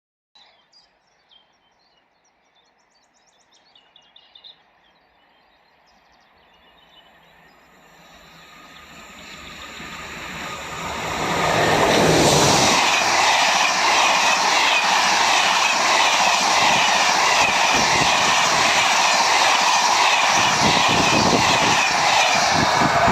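Locomotive-hauled Corail passenger train approaching, growing louder over about five seconds, then passing close with a steady rush and the rapid clickety-clack of its coach wheels over the rails.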